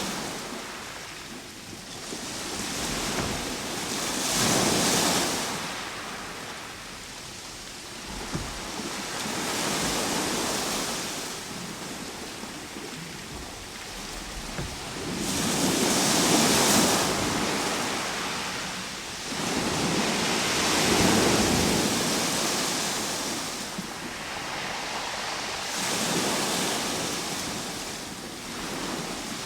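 Ocean waves breaking and washing on a shore, a hissing surf that swells and fades every five or six seconds, about five surges in all.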